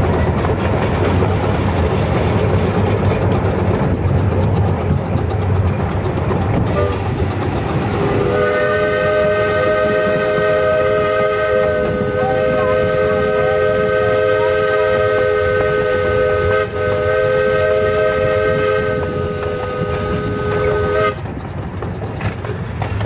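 Miniature railway train running with a steady rumble. About eight seconds in, a chime whistle sounds a chord of several notes in one long blast of about thirteen seconds, with a tiny break partway.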